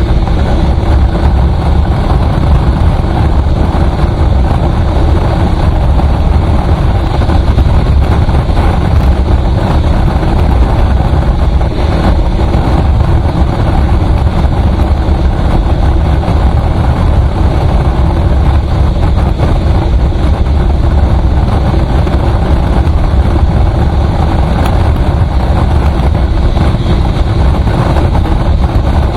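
A vehicle driving steadily on the highway: a constant deep rumble of engine and road noise with no change in speed.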